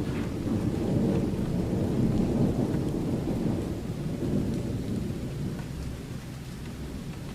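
Recorded thunderstorm: a long roll of thunder over falling rain. The rumble builds over the first few seconds and then slowly eases off.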